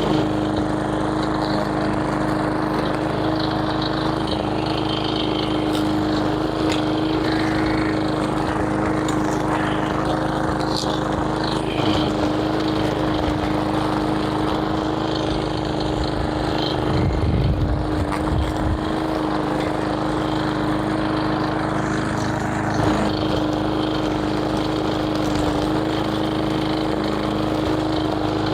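Small gasoline engine running at a steady speed for the whole stretch, with a brief lower rumble a little past halfway.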